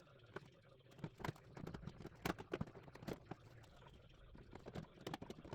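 A series of light, irregular clicks and knocks.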